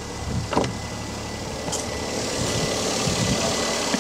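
2003 Daihatsu Charade's small three-cylinder engine idling in neutral, just after its newly fitted clutch has been tested. A few sharp knocks come about half a second in.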